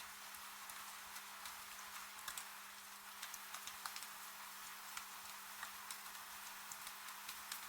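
Rain falling: a steady hiss with individual drops ticking irregularly, over a faint steady low hum.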